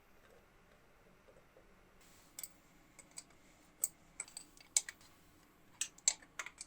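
A dozen or so sharp clicks and taps at irregular intervals, starting about two seconds in, as of small hard objects being handled.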